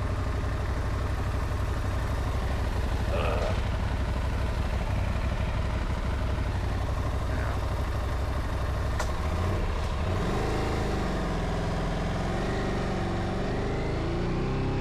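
Dual-sport motorcycle engine running steadily, its revs rising and falling repeatedly from about ten seconds in.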